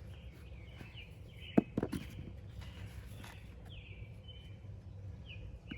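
Outdoor ambience: birds chirping now and then over a steady low rumble, with two sharp knocks about a second and a half in.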